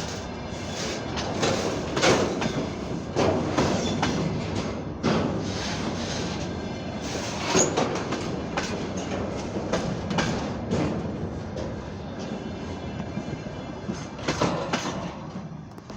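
Freight train rolling past, its wheels clacking and knocking irregularly over the rail joints under a steady rumble, with a burst of knocks near the end as the sound begins to fade.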